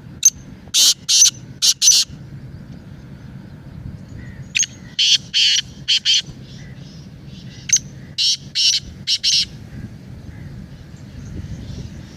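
A francolin (teetar) calling: three loud phrases of about five sharp, high notes each, a few seconds apart.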